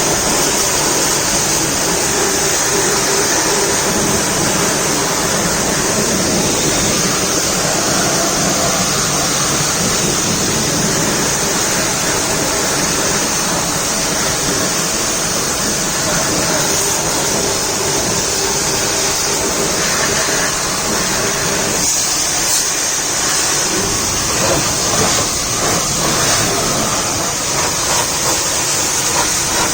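A jet of water spraying against a truck during washing: a steady, loud hiss that holds throughout, with small changes in texture later on as the spray moves.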